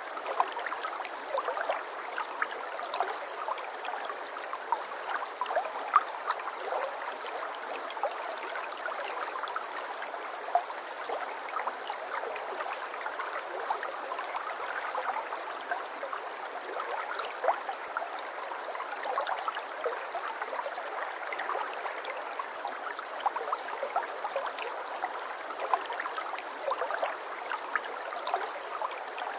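Shallow brook babbling steadily, a continuous rush of water with many small splashes and gurgles.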